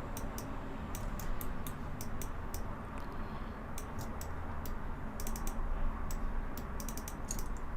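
Computer keyboard keys clicking irregularly, some in quick bursts of several presses, with pauses between, as shortcut keys are pressed. A low steady hum underneath.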